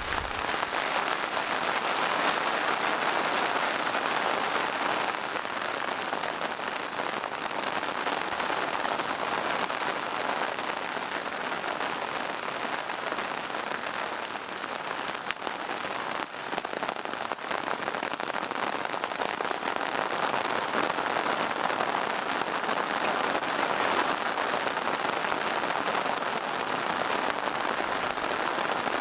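Steady rain falling in a forest, a dense, even patter of drops on leaves and rocks.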